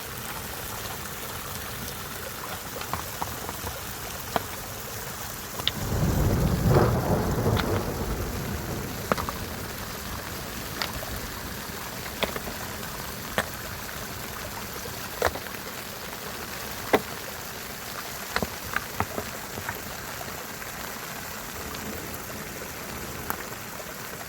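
Steady rush of a rain-swollen river, with scattered sharp clacks of stones knocking together as rocks are shifted, and a louder low rush of water lasting about two seconds about six seconds in.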